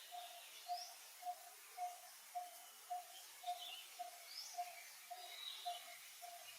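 Birds calling: a steady series of short notes repeated about twice a second, with higher chirps and rising whistles scattered over it.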